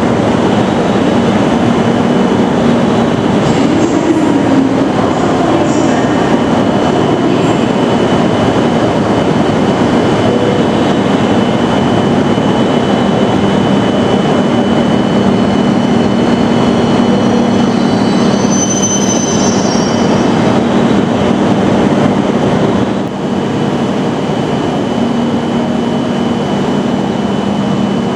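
Shinkansen train running along the station platform, a steady loud rumble of wheels and running gear with a constant whine over it. Brief high squeals come in a little past the middle, and the level dips for a moment near the end.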